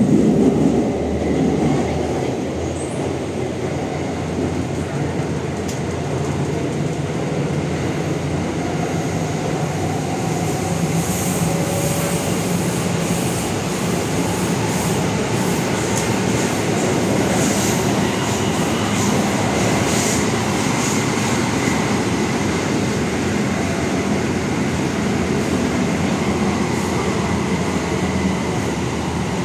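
Inside an MTR K-Train electric multiple unit on the move: the steady rumble of wheels on rail, with the faint whine of its VVVF traction inverter and motors. Short high-pitched wheel squeaks come through the middle.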